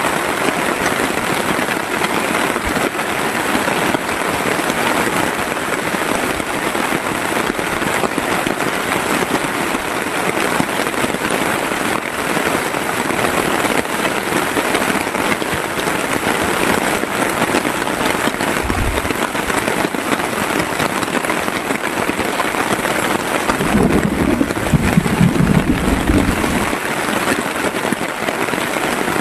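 Heavy rain falling steadily in a dense, even patter. A short low thump comes about two-thirds of the way in, and near the end a few seconds of low rumbling thumps rise over the rain.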